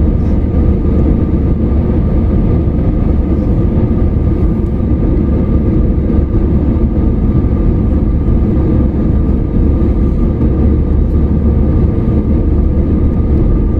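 Steady rumble of an airliner heard from inside the cabin: engine and airflow noise with a faint steady hum over it.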